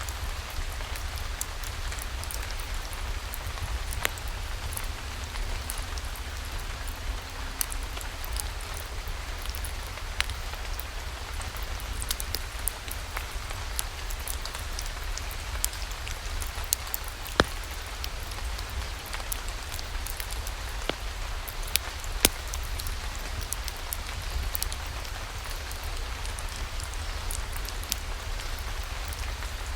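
Steady rain falling, with a wood fire in a fireplace giving scattered sharp crackles every few seconds.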